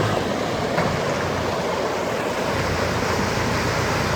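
Heavy rain pouring down, a steady dense rushing noise.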